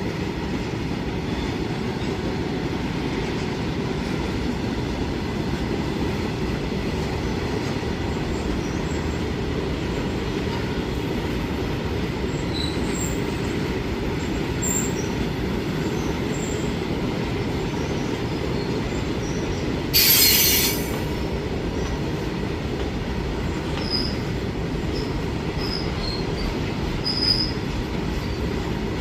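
Train running on the rails with a steady low rumble, with brief high-pitched wheel squeals in the second half. A short, loud hiss cuts in about twenty seconds in and fades within a second.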